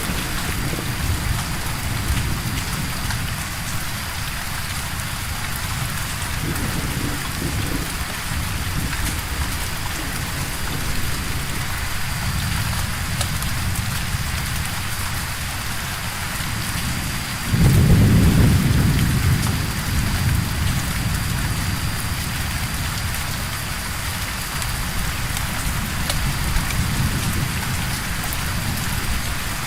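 Steady rain with a low rumble of thunder underneath. A little past halfway a louder clap of thunder breaks in suddenly and rolls away over about two seconds.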